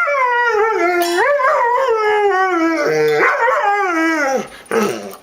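Dog howling: one long wavering howl that slides downward in pitch, followed near the end by a brief second cry.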